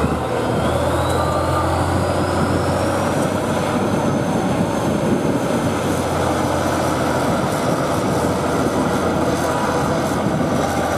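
Heavy competition truck engine working steadily under load, with a deep hum and a thin whine that rises in pitch over the first few seconds and then holds steady.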